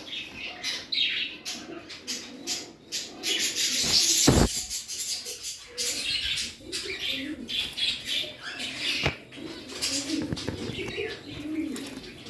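Pet parrots chirping and scratching amid many short clicks, with low warbling calls; a loud rustling flurry, like wings flapping, about four seconds in.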